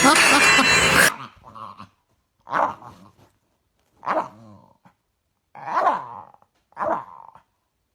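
A loud, dense sound that cuts off suddenly about a second in. Then a dog gives short growling barks, one about every second and a half.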